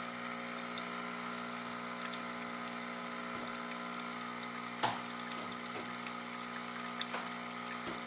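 Terra Kaffe espresso machine running its milk-line cleaning cycle, its pump humming steadily as it flushes the milk tube, with a sharp click about five seconds in.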